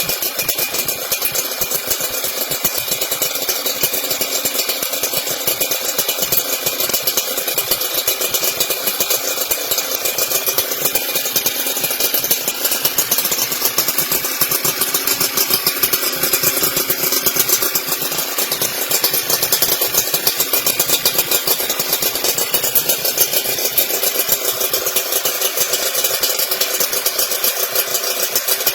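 Yamaha JR120 motorcycle's two-stroke single-cylinder engine running steadily with a rapid, buzzy firing beat.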